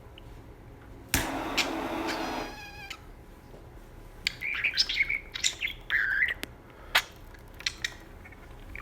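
Pet budgerigar chattering in quick, high chirps and warbles, most busily from about four to seven seconds in. About a second in, a click and a hiss lasting a second or so comes before the chatter.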